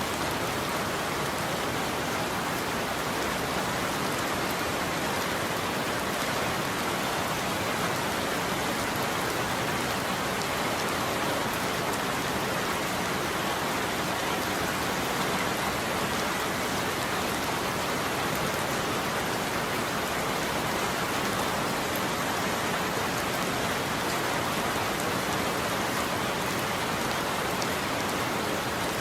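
Steady heavy rain falling on a roof, an even, unbroken patter with no thunder.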